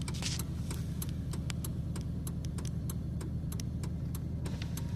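Steady low hum of a vehicle idling, heard from inside the cabin, with many short irregular ticks and clicks, several a second.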